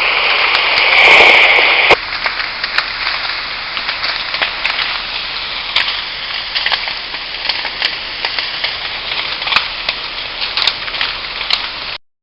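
Wildfire burning, with irregular crackling and popping over a steady hiss. For the first two seconds a burst of two-way radio static sounds over it, then cuts off sharply.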